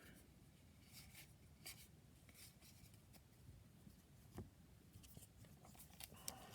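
Near silence with faint swishes and soft ticks of baseball cards being slid and flipped through by hand, one tick a little louder about four and a half seconds in.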